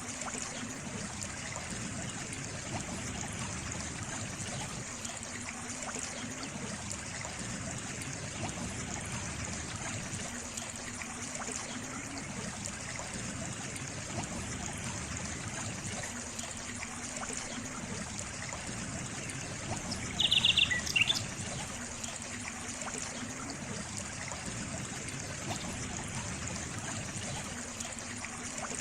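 Water trickling and running steadily, like a small stream. About two-thirds of the way through, a bird gives one short, quick series of high chirps.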